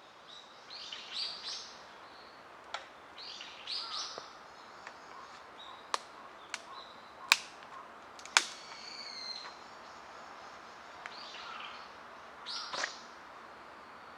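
Small birds chirping in short bursts of calls over a faint outdoor background, with four sharp cracks or snaps between about six and eight and a half seconds in, the loudest sounds here.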